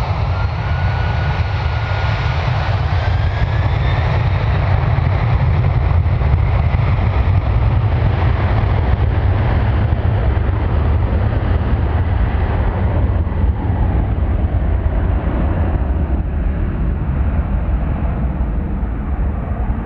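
Boeing 767-300ER jet engines at takeoff power, a loud steady roar over a deep rumble, with a thin whine rising slightly in the first few seconds. After about twelve seconds the higher part of the roar fades as the jet moves away, leaving the low rumble.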